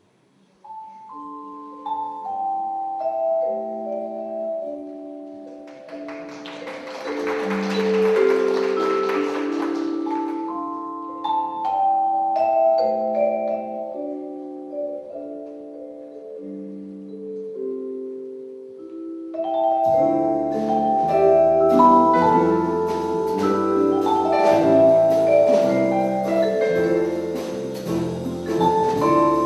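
Vibraphone playing a slow jazz introduction alone, with sustained ringing notes and chords. A hiss swells and fades under it about six to ten seconds in. About twenty seconds in, the jazz ensemble comes in with bass underneath and the music grows louder.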